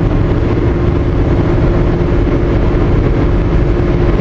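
Car on the move, heard from inside the cabin: steady engine and road noise with a constant hum.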